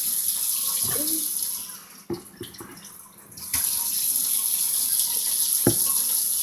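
Water running from a tap in a steady hiss; it fades out a little under two seconds in and comes back suddenly about a second and a half later. A few light knocks sound during it.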